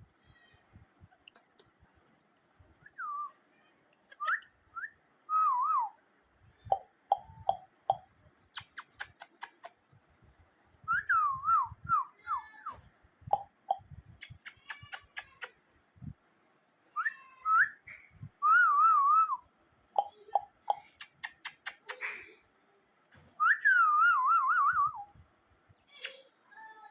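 A young parrot whistling: repeated short, warbling phrases that waver quickly up and down in pitch, several times over, with sharp clicks in between.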